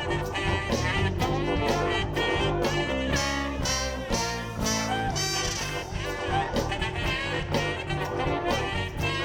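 Live soul band playing an instrumental passage: a horn section of saxophone, trombone and trumpet over drum kit, bass and keyboard, with a steady beat.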